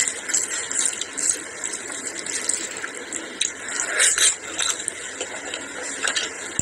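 Close-miked eating: wet chewing and lip-smacking of rice and curry eaten by hand, with fingers squishing the rice on the plate. About four seconds in, a fresh handful goes into the mouth and the smacking peaks.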